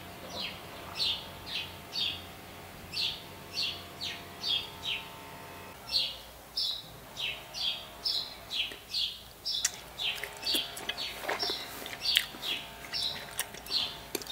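A small bird chirping over and over, short high chirps about twice a second, with a few faint clicks in the second half.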